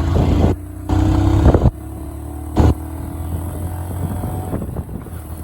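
Motorcycle engine running, with short bursts of louder revving in the first three seconds, then settling to a steadier run.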